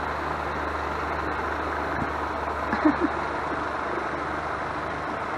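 Steady low background hum with a hiss, like a distant engine idling, with a faint tick about two seconds in and a brief small sound about three seconds in.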